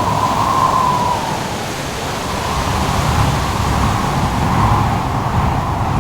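Howling wind with a wavering whistle over a steady rush of crashing surf and a low rumble. The whistle fades about a second in and comes back faintly later.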